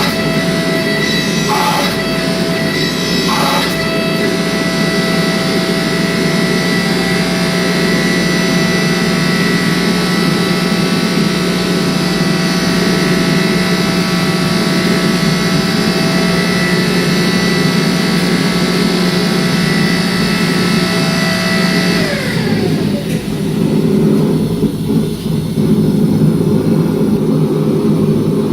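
Shop power tool's electric motor running at steady speed, then switched off about two-thirds of the way through and winding down, while a steady rushing roar carries on underneath.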